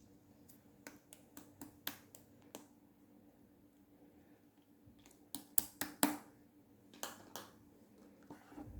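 A run of sharp little clicks and pops, several in the first two and a half seconds, then a louder cluster about five to six seconds in and two more near seven seconds, over a faint steady hum.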